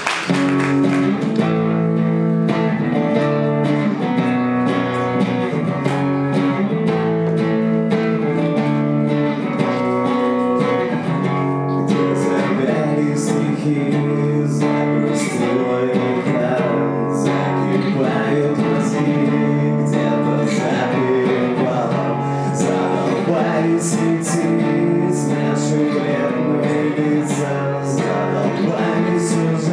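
Acoustic guitar playing chords steadily at the opening of a live song, with crisp strums growing sharper from about twelve seconds in.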